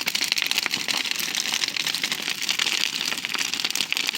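Large bonfire burning, its wood crackling and popping in a dense, continuous stream of rapid snaps.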